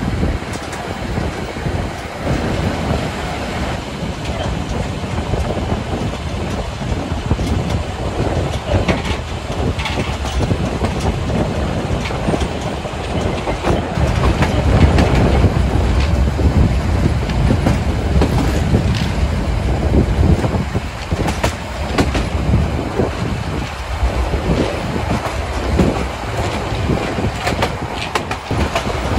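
Train running along the track with a continuous rumble and repeated clickety-clack of wheels over the rails, with occasional wheel squeal.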